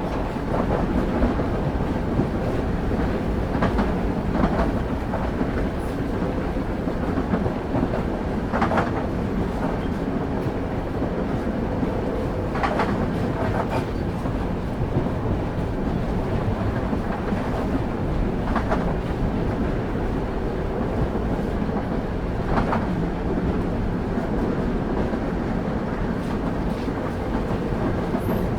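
Railway carriage wheels running on the rails: a steady low rumble with clicks over the rail joints every few seconds, some coming in quick pairs.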